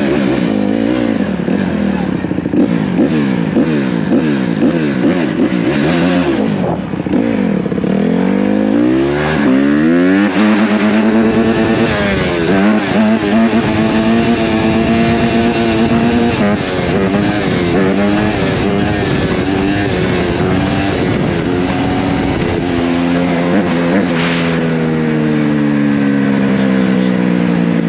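Dirt bike engine revving up and down in quick blips, then climbing in pitch through the gears and running on at speed, its pitch falling away near the end as it slows.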